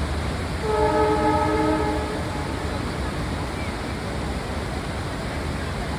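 Steady rush of a large waterfall, with a train horn sounding once, a held chord of several tones lasting about a second and a half, starting just under a second in.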